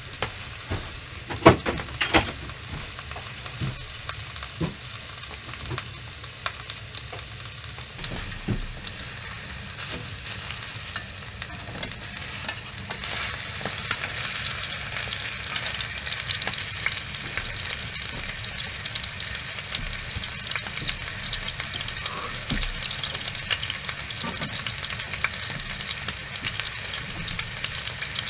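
A large steak sizzling in hot olive oil in a pot on the stove. The frying hiss is steady and grows louder about halfway through, and there is a sharp knock near the start.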